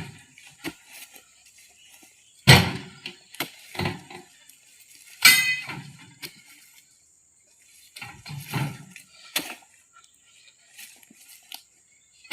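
Irregular heavy thuds and clangs as oil palm fruit bunches are thrown onto a tractor's trailer, with one ringing metallic clang about five seconds in.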